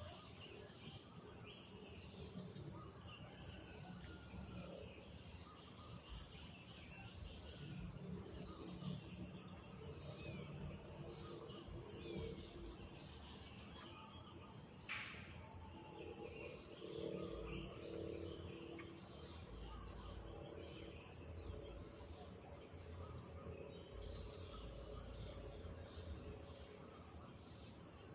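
Faint rural morning ambience: a steady, high insect chorus with scattered bird chirps, and one short sharp call about fifteen seconds in.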